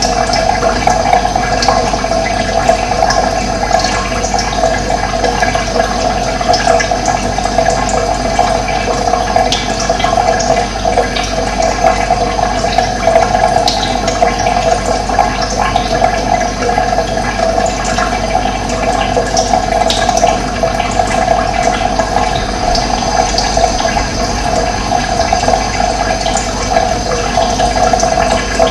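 Running water rushing steadily, with a few faint, brief bird chirps high above it now and then.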